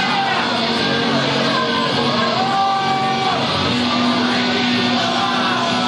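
Live punk rock band playing a song: electric guitars with a voice singing over them, steady and loud.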